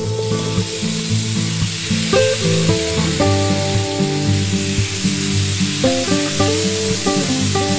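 Marinated chicken strips sizzling in hot oil in a nonstick frying pan as they are tipped in and stirred with a wooden spatula, a steady dense hiss. Background music plays underneath.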